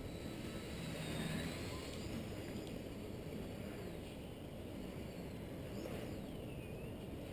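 Strong wind buffeting the microphone, with the faint high whine of an RC Factory Edge 540 V3's electric motor gliding up and down in pitch as the model flies.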